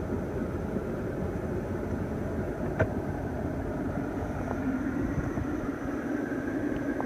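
Steady hum inside a car's cabin, with one sharp click about three seconds in.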